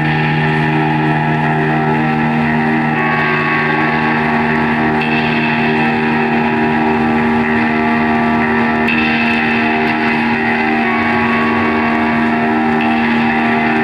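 Live band playing a loud, sustained droning passage on amplified instruments: held tones over a steady low note, with the upper notes shifting every two to four seconds.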